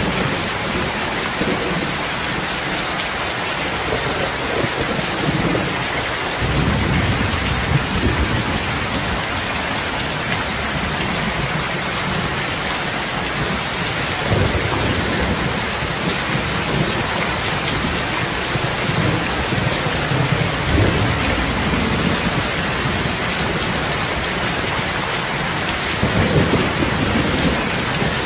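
Heavy rain falling steadily, with low rumbles of thunder swelling and fading every few seconds.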